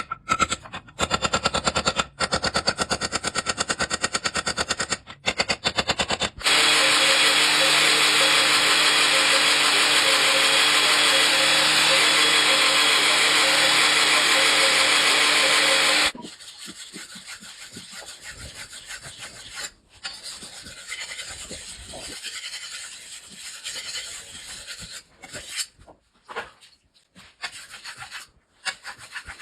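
Knife-making workshop sounds: a rapid run of sharp metallic strikes in bursts, then a motor-driven grinder running steadily for about ten seconds until it cuts off. After that come quieter, irregular rubbing and filing strokes on the blade.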